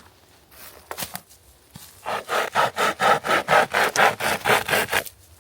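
Hand saw cutting through a dry pine log with fast, even back-and-forth strokes, about five a second, starting about two seconds in and stopping near the end. A couple of sharp knocks come about a second in.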